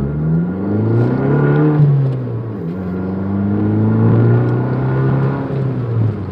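Fiat 500 Abarth's 1.4-litre turbocharged four-cylinder accelerating hard under boost, in eco mode, heard inside the cabin. The engine note rises for about two seconds, drops at a gear change, rises again, then holds and eases off near the end.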